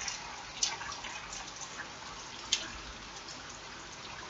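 Steady rain falling, with single drips landing close by, the clearest about half a second in and about two and a half seconds in.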